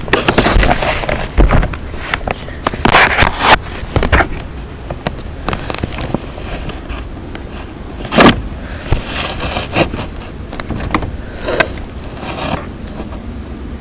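Irregular bursts of scraping, rustling noise close on the phone's microphone, some very loud, over a steady low rumble.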